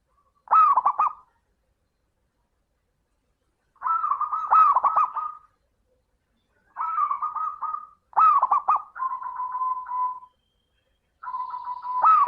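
Zebra dove (perkutut) cooing in about five separate phrases, each a quick run of bubbling, looping notes, some ending in a short level trill.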